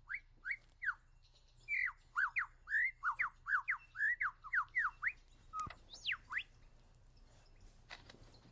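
Male superb lyrebird singing: a quick run of loud, clear whistled notes, most sliding down in pitch, coming faster in the middle, with a long rising-then-falling sweep about six seconds in.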